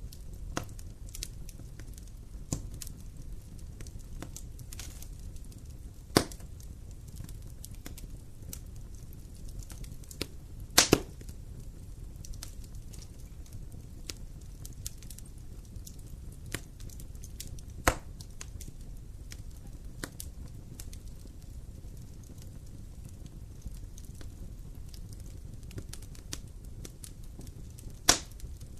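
Wood campfire burning: a steady low rush of flames with light crackling and a few sharp pops, the loudest a double pop about eleven seconds in.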